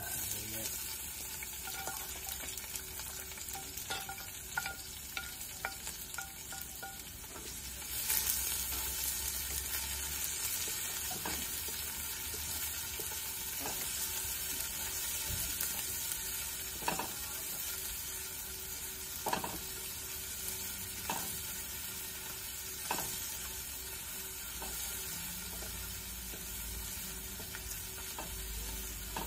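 Chopped aromatics sizzling in hot oil in a stainless steel pot, stirred with a wooden spoon that knocks against the pot now and then. The sizzling grows louder about eight seconds in.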